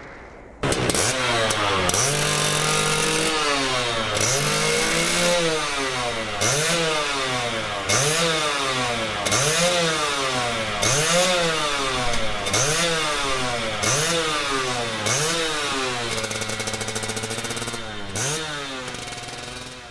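A vehicle engine revving up and falling back over and over, about once every second and a half, steadier near the start and near the end.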